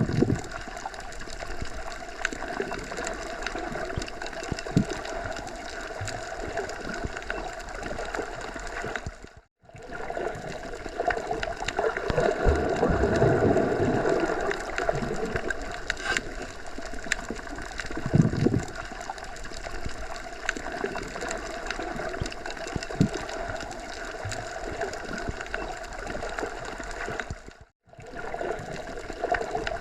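Steady rushing outdoor nature ambience that cuts out to silence for a moment twice, a third of the way in and near the end.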